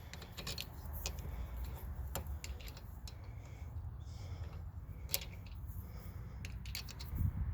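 Scattered light metallic clicks and taps of a lug nut being handled at a newly fitted wheel stud.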